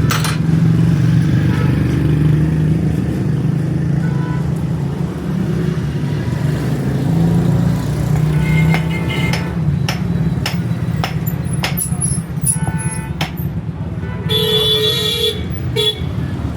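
A vehicle engine running steadily, with a run of sharp metallic clicks and knocks in the second half and a short honk-like tone about three-quarters of the way through.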